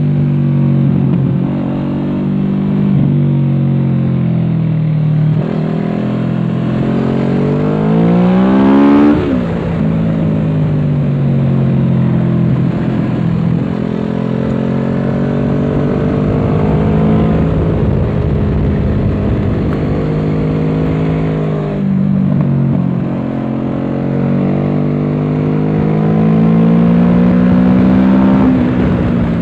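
Kawasaki Z650's parallel-twin engine running through an aftermarket Dominator exhaust under riding load, revving up and easing off. The pitch climbs steeply to a peak about nine seconds in and falls away sharply, then rises and falls again twice more, the last time near the end.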